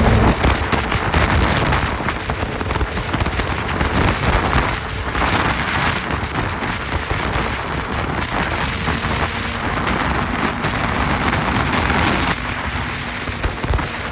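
Wind rushing and buffeting over the microphone on a moving motorcycle. The engine's steady tone sits faintly underneath and becomes more audible in the last couple of seconds.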